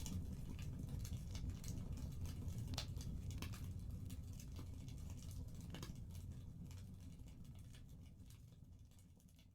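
Wood fire crackling in a fireplace: scattered sharp pops and snaps over a low rumble, gradually fading out toward the end.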